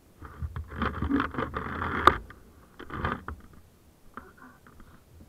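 Scraping and rustling noises, ending in a sharp click about two seconds in, then a shorter burst of scraping around three seconds and a few faint scratches.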